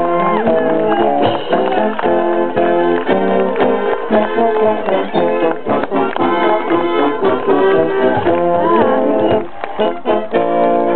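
Brass band music playing, several horns sounding a tune together.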